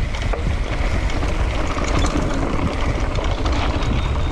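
Wind buffeting the microphone over the rumble of a mountain bike rolling down a dirt trail, with scattered short clicks and rattles.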